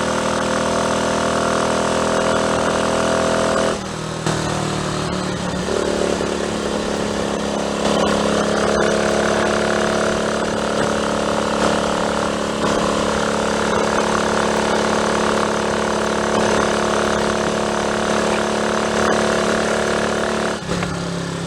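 Triumph Tiger Cub's 199 cc single-cylinder four-stroke engine running under way. Its note drops about four seconds in, picks up again a couple of seconds later and changes once more near the end.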